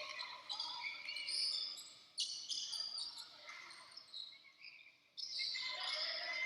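Basketball game sounds on an indoor court: the ball bouncing and sneakers squeaking, with voices in the background. The sound changes abruptly about two seconds in and again about five seconds in.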